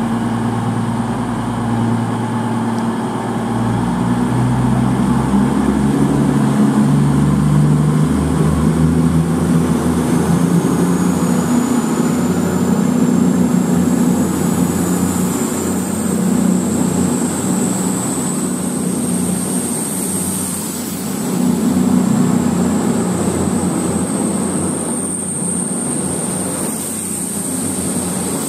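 A train running at the station with a steady low engine drone. The drone shifts in pitch a couple of times in the first few seconds, and a high thin whine rises slowly in pitch through the middle, then holds.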